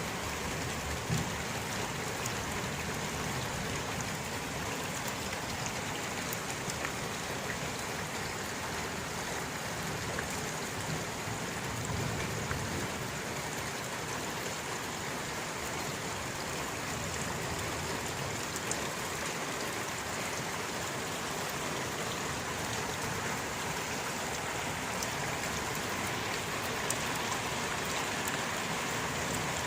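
Steady rain falling, an even hiss with scattered drop ticks and a faint low rumble beneath.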